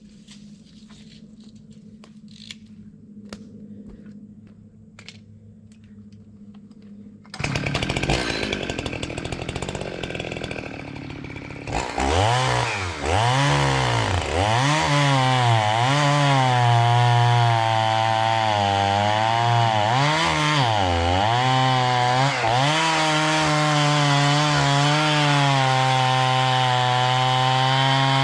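Two-stroke chainsaw: after a few seconds of faint ticks, a loud rush of noise starts about seven seconds in. From about twelve seconds the engine runs, revving up and down over and over, then holds a steady pitch for the last few seconds.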